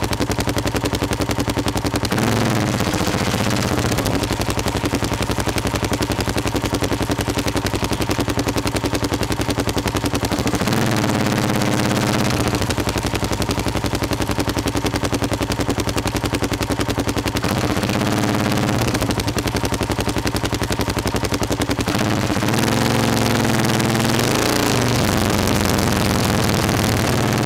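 Motorcycle engine heard from an onboard camera, running at low town speed with a rapid, even exhaust pulse. Its pitch rises and falls about eleven seconds in, again around eighteen seconds, and for a couple of seconds from about twenty-three seconds.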